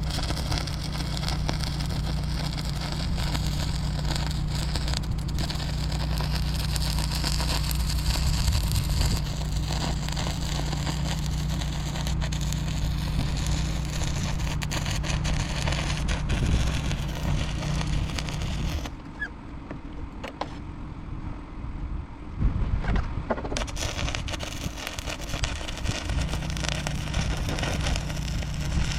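Electric welding arc crackling steadily over a low buzz as a patch plate is welded onto a truck fender; the arc stops for a few seconds past the middle, then starts again.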